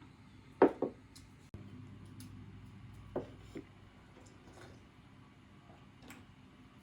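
A few light knocks and taps, a pair less than a second in, another pair about three seconds in and a fainter one near the end, like wood or utensils being handled.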